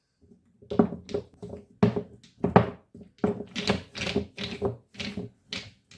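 A run of short, sharp taps or clicks, about two to three a second and unevenly spaced, like a hard object knocking lightly on a surface.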